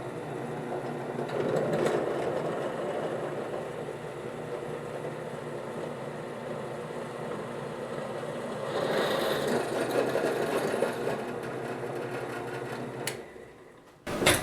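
Electric drill running a 13/64 in. twist bit through 5/8 in. steel round bar, with a steady motor hum that swells twice as the bit bites. The drill slows and stops near the end.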